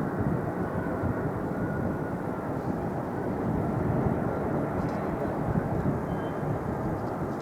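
Jet airliner engines running steadily as an aircraft passes on approach: a constant rush with a faint high whine.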